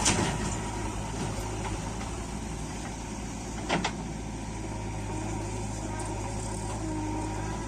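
Diesel engine of earth-moving machinery running steadily, with a single sharp knock about four seconds in.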